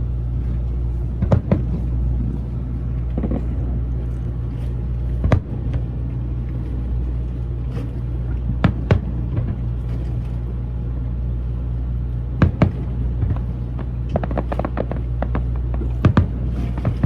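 Fireworks going off: single bangs and close pairs every few seconds, then a quick run of crackling bangs near the end, over a steady low rumble.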